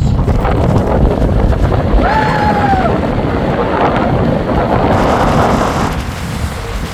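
Strong gale-force wind buffeting the microphone in a loud, dense rumble, over the sound of lake waves. A brief falling cry cuts through about two seconds in, and the wind eases a little near the end.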